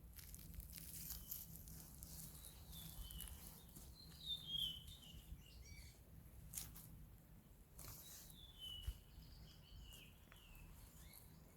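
A songbird singing two short descending warbling phrases a few seconds apart, faint, over a low outdoor rumble.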